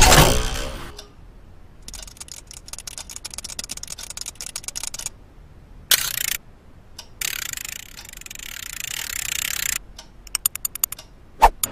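Runs of fast, dry clicking and ticking with short pauses between them, a brief loud burst of noise about halfway through, and a stretch of hiss before a last quick run of regular clicks.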